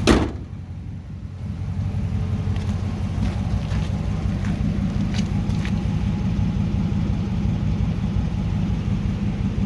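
2010 Dodge Charger SRT8's 6.1-litre Hemi V8 through a modified exhaust, idling with a steady low rumble. A short loud burst right at the start dips away, and the idle settles back within about a second.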